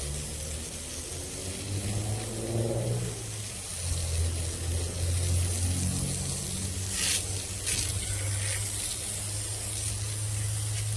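Water sprayed onto a freshly sawn walnut slab to wash the surface, a steady hiss with a few louder spurts about seven to eight seconds in. A steady low engine-like hum runs underneath.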